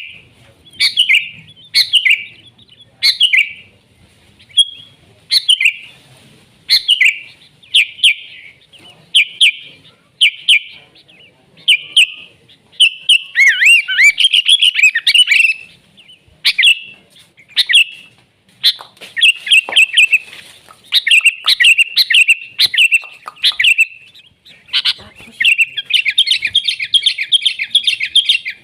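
Sooty-headed bulbul (kutilang) singing: short bubbling chirped phrases repeated about once a second, a longer warbling run about halfway through, and a fast continuous trill near the end.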